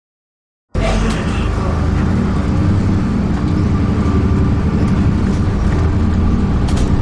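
Dennis Trident 2 double-decker bus running along the road, its diesel engine and road noise heard from on board. The sound cuts in abruptly out of silence under a second in and then holds steady.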